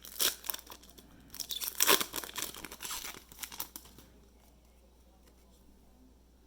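A Panini Threads trading-card pack wrapper being torn open and crinkled, a run of crackling rips that stops about four seconds in.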